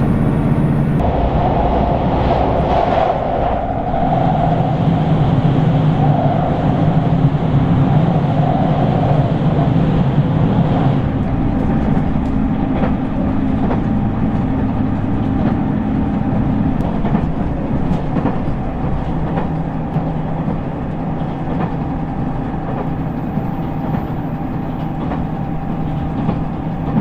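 Running noise of a JR Shikoku 2000 series diesel express heard from inside the passenger cabin at speed: a steady low engine drone under the rumble and clatter of the wheels on the rails.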